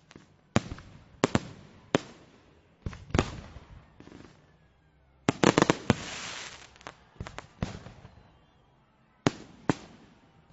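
Fireworks exploding, with sharp bangs about a second apart. About five seconds in comes a rapid cluster of bangs that trails off into crackling, then a few more single bangs near the end.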